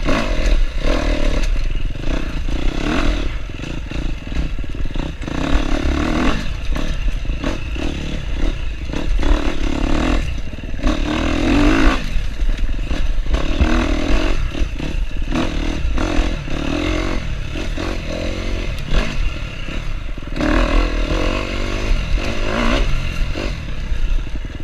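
KTM enduro dirt bike engine revving up and down as it is ridden over a rough trail, with clattering and scraping from the bike over the ground.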